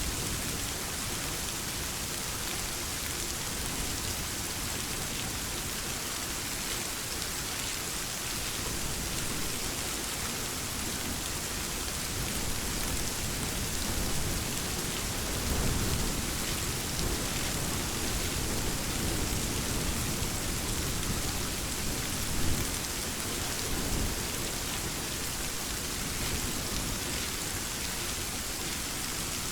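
Steady, heavy rain hiss, with low rumbles of thunder swelling up around the middle and again later, one brief louder jolt among them.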